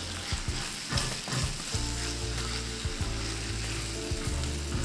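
Onions and spices sizzling as they fry in an enamelled cast-iron balti pot, with a steady hiss. A silicone spatula stirs and scrapes the mixture off the bottom now and then, to keep the spices from sticking.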